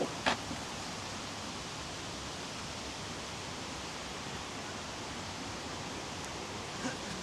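Steady rush of flowing water, a mountain stream or waterfall, with a couple of sharp clicks right at the start and a faint knock near the end.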